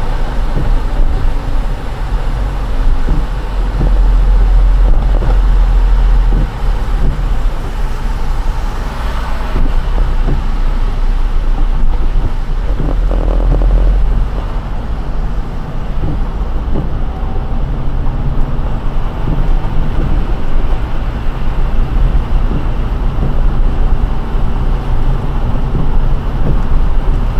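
Car driving on rain-soaked roads: a steady low road rumble with the hiss of tyres on wet tarmac.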